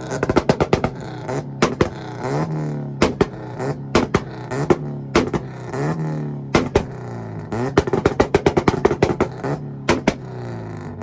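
Acura Integra engine on a two-step launch limiter: revs climb again and again up to the limiter and hold there, with rapid sharp pops and cracks from the exhaust. It fades near the end.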